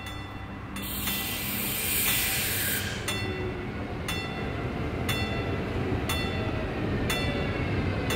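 Siemens Vectron electric locomotive and double-deck coaches pulling in and passing close while slowing for the halt: a steady low rumble of wheels on rail. A bright hiss comes in about a second in and lasts some two seconds, then a sharp click about once a second as the wheels go over a rail joint.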